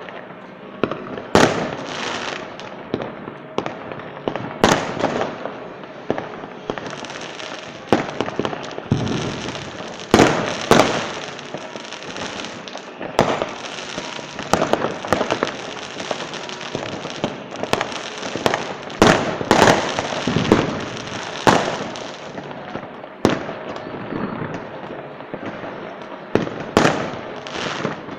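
Fireworks display: loud bangs of bursting shells come irregularly, often a second or two apart, with continuous crackling and fizzing between them.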